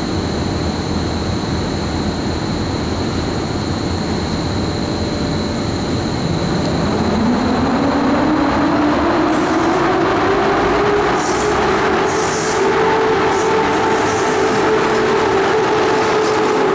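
Electric multiple-unit SKM commuter train at the platform, its running rumble steady throughout. About seven seconds in, a motor whine rises in pitch and then holds, and short high hisses come in over the second half.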